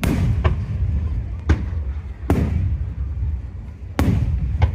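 Aerial firework shells bursting overhead: about six sharp booms in quick, irregular succession, each followed by a low rolling rumble.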